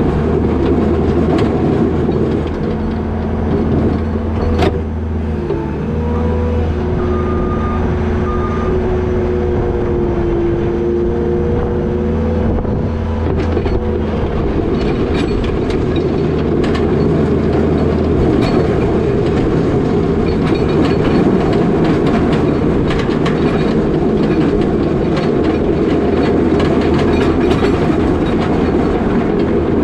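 New Holland L220 skid steer's diesel engine running hard while plowing, with its pitch shifting up and down in the first half. Through the second half there is a steady clatter and many sharp knocks and rattles from the machine and its box plow.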